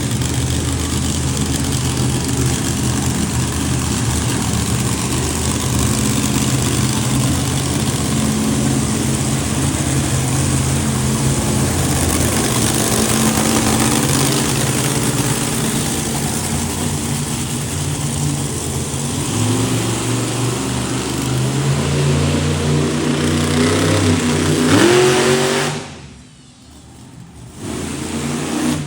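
Monster truck engines running loud and revving, with the pitch rising near the end. The sound cuts away suddenly about 26 seconds in and comes back a couple of seconds later.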